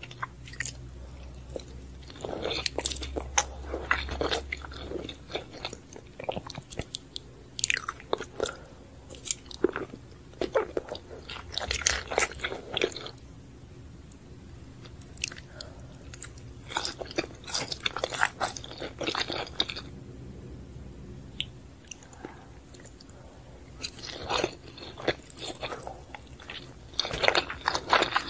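Close-miked chewing and biting of sushi and raw fish sashimi: soft clicking, sticky mouth sounds in bursts a few seconds apart, with quieter pauses between mouthfuls.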